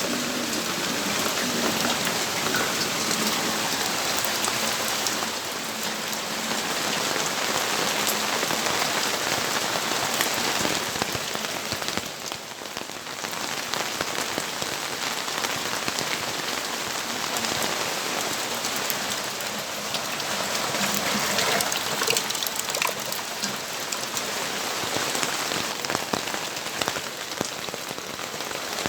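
Steady rainfall: a dense hiss of rain with many small drop ticks, easing slightly for a moment about twelve seconds in.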